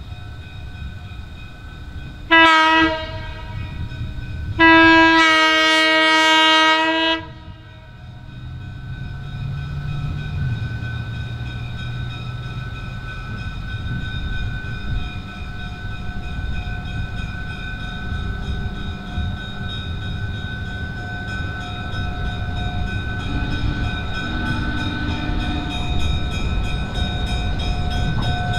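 A locomotive sounds a short blast and then a longer blast of about two and a half seconds, followed by the steady rumble of a train running, growing gradually louder.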